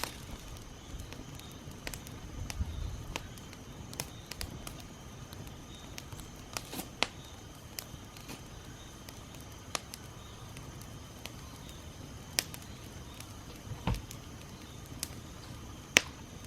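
Wood campfire of hard wood and thin branches crackling, with irregular sharp pops scattered through it, the loudest near the end.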